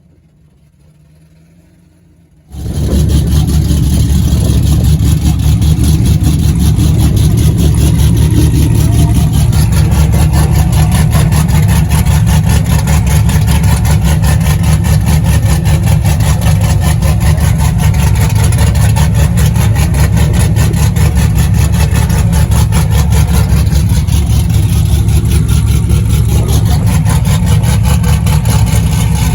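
Car engine running very loud and close, starting suddenly about two and a half seconds in and holding steady with a rapid pulsing beat, overloading the recording.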